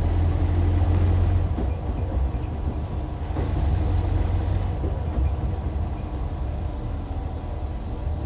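Hyundai D6CC Powertec 380 straight-six diesel of a Hyundai Universe Comfort coach, a deep steady drone under way, heard from inside the cabin. The engine note eases after the first second or so and picks up again about four seconds in.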